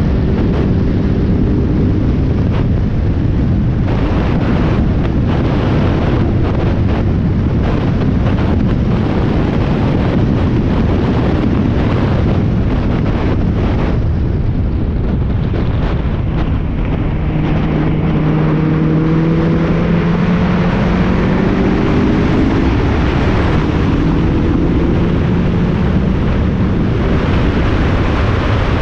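Spec Miata's four-cylinder race engine running hard on track, heard onboard under heavy wind and road noise. The engine note climbs steadily twice in the second half.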